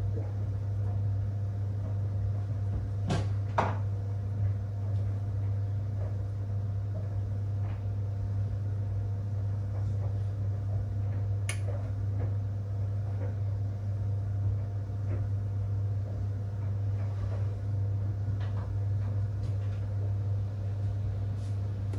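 Whirlpool 3RLSQ8033SWD top-loading washing machine running a delicate cycle: a steady low motor hum with a few sharp clicks and knocks, one about three seconds in, another just after and one near the middle.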